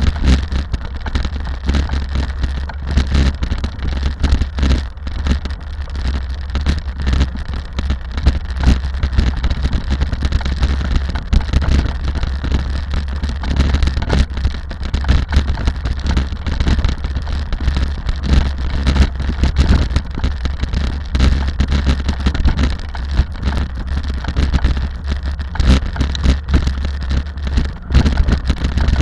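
Rally car driving at speed: a steady, loud low rumble of engine and road noise with a dense, irregular crackle over it.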